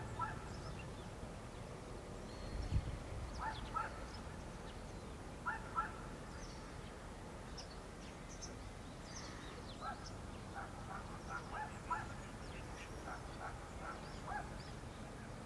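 Birds calling in an open field: short clipped notes, mostly in pairs, repeat every couple of seconds and come in a quicker run near the end, over faint high chirps and twitters. A single low thump about three seconds in.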